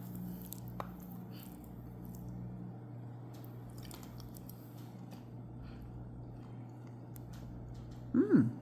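Soft chewing and wet mouth sounds of a person eating a forkful of rice bowl, with faint clicks, over a steady low hum. A short voiced 'mm' comes near the end.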